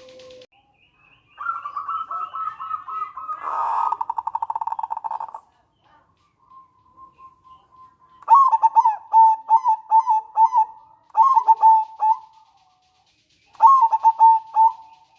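Zebra dove (perkutut) singing. A run of cooing notes speeds into a fast rattle a few seconds in; then, after a pause, come three bursts of quick, staccato cooing notes.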